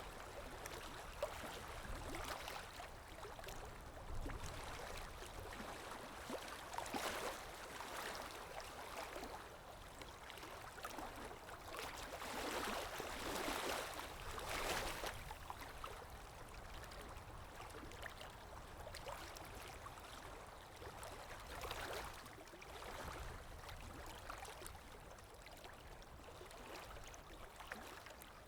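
Underwater ambience: a continuous wash of muffled water noise and bubbling that swells louder now and then, with no steady tones.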